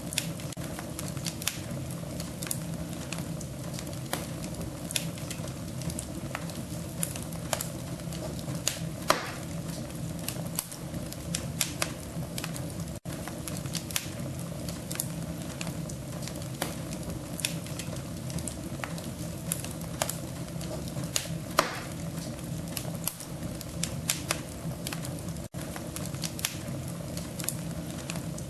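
Burning wood crackling in a stove, irregular sharp pops and ticks over a steady low hum.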